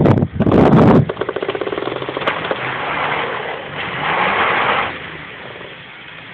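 Truck engine revving hard while pulling a tree with a chain. The sound drops off suddenly about a second in, and the engine runs on with revs rising and falling before easing off near the end.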